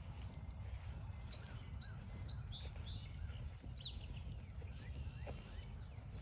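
A songbird singing one phrase of about eight short, high, clear notes, ending in a few quicker slurred notes about four seconds in, over a steady low rumble.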